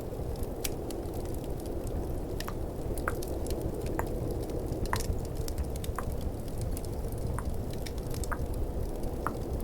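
Close-miked tongue clicks, roughly one a second, over a steady low snowstorm rumble and a crackling fireplace ambience.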